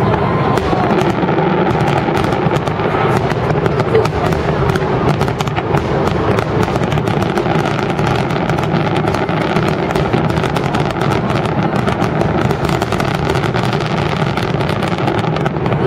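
Aerial fireworks barrage: many shells bursting in rapid, overlapping succession, with dense crackling from the gold stars and no pause.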